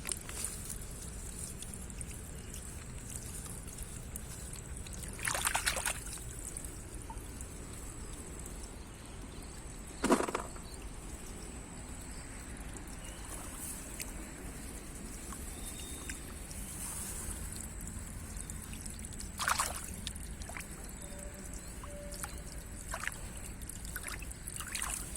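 Shallow rice-paddy water sloshing and trickling in four brief splashes several seconds apart, the second one the sharpest, over a steady background with a faint high whine.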